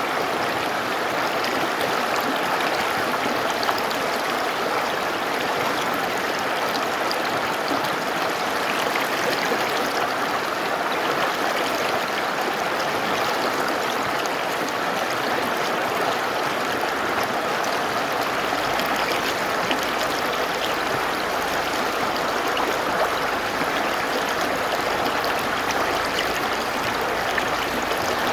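Mountain river flowing: a steady, even rush of water that holds the same level throughout.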